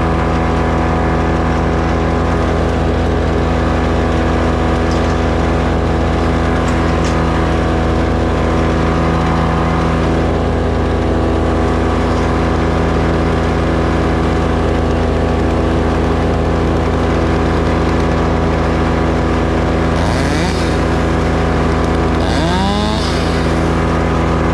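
An engine running steadily at a constant speed, with a brief rising sweep in pitch twice near the end.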